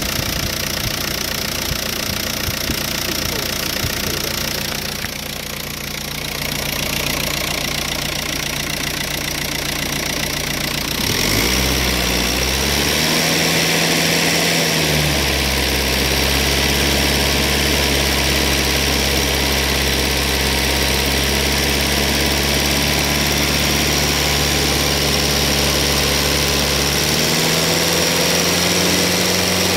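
Audi A4 B6 1.9 TDI four-cylinder diesel (AVF) running steadily on diesel purge solution while being taken through its rev ranges to clean the injectors. The engine note shifts about 11 seconds in and steps up again near the end.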